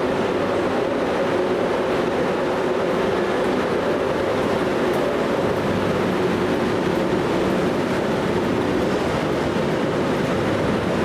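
Train running past steadily, its wheels rumbling and clattering on the rails.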